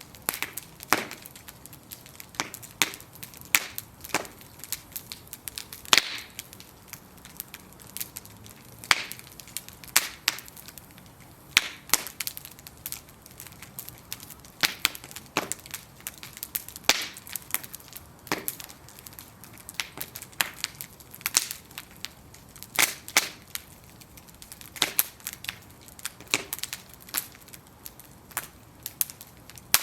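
Bonfire of burning wooden planks crackling, with sharp, irregular pops and snaps a few times a second over a soft hiss of flame.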